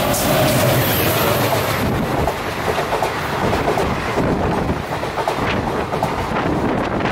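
Passenger train running along the track: a steady rumble of carriage wheels on the rails with a clickety-clack over the rail joints.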